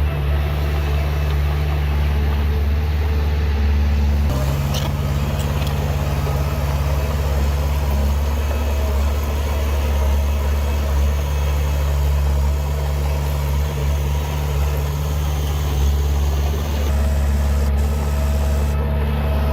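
Heavy diesel engine of earthmoving machinery running steadily with a deep low hum. Its sound changes abruptly about four seconds in and again near the end.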